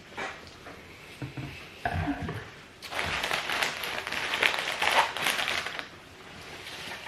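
Crinkling, rustling noise made up of many small crackles, lasting about three seconds in the middle, after a few light knocks.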